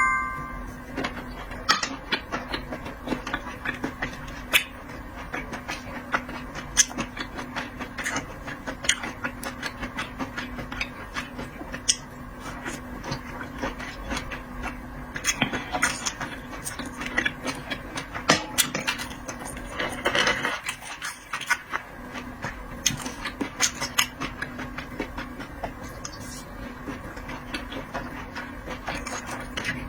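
Eating sounds from seafood being chewed: irregular wet clicks and smacks, with a couple of short noisier bursts of crunching or slurping, over a steady low hum.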